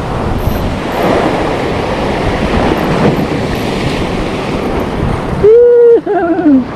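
Sea waves washing on the shore with wind buffeting the microphone. Near the end comes a short, loud pitched call, held steady and then falling.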